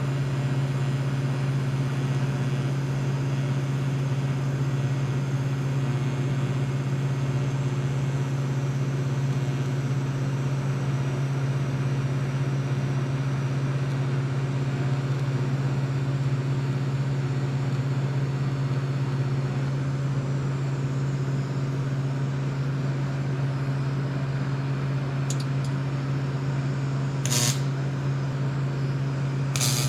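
Steady low machine hum, even and unchanging, with a few short sharp hisses or clicks near the end.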